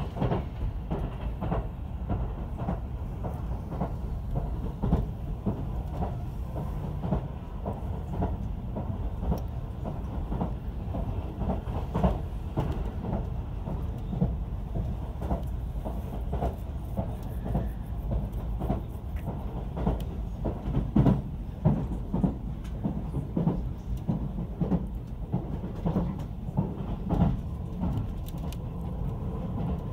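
Inside the carriage of a JR Central 373 series electric train running at speed: a steady low rumble with frequent clicks from the wheels passing over rail joints.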